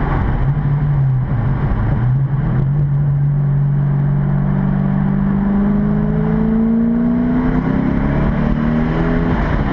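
Twin-turbocharged 2010 Corvette Grand Sport's 6.2-litre V8, heard from inside the cabin, accelerating through the gears. The engine note dips with quick shifts about one and two seconds in, then climbs slowly and steadily in pitch and falls again at a shift near the end.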